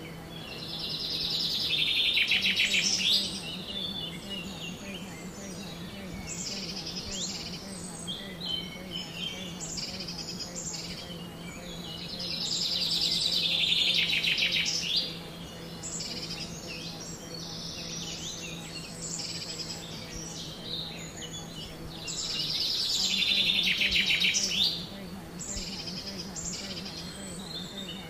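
Woodland birdsong: a loud, rapid trilling call repeated about every eleven seconds, with shorter chirps in between, over a steady low hum.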